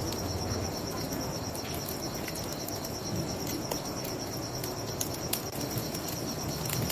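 Crickets chirping in a steady, rapid pulse, over the scattered crackle of a bonfire and a low rushing background.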